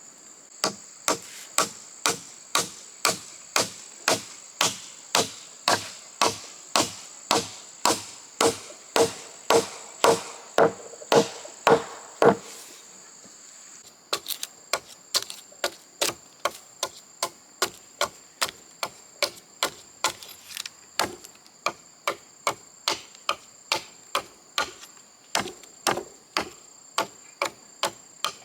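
Steady series of hand-tool strikes on wood, about two a second. The blows pause briefly about halfway through and then resume. A steady high insect chirr runs underneath.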